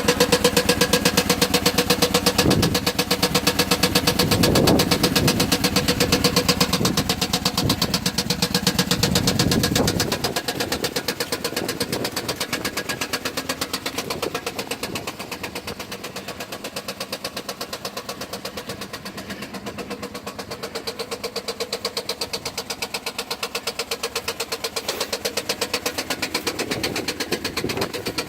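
Chrysler 300C's Hemi V8 engine running with a rapid, even knock in time with the engine. The engine is louder and fuller with a couple of brief rises in pitch in the first ten seconds, then settles to a quieter idle with the knock still there.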